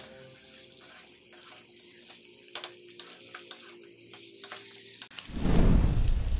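Chicken pieces sizzling and crackling in hot oil in a kadai as a spatula stirs them. About five seconds in, a much louder rushing noise lasts for about a second.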